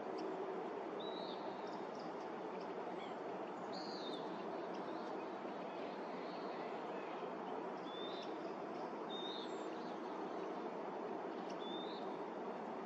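Several short, high bird chirps scattered at irregular intervals over a steady background hiss of outdoor ambient noise.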